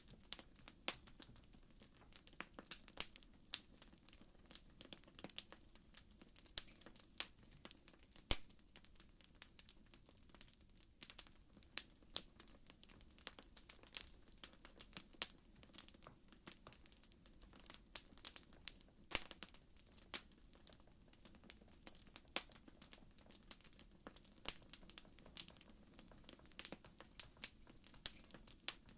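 Campfire crackling: irregular sharp pops and snaps, several a second, over a faint low rumble.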